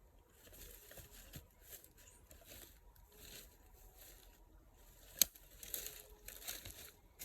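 Faint rustling and scuffing, with one sharp click a little over five seconds in.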